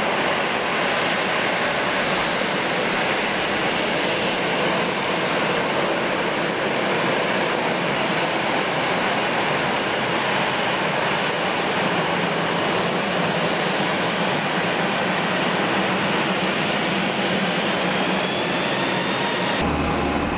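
Airbus A320 jet engines running steadily, with a faint high whine over the noise, then an abrupt change in the sound just before the end.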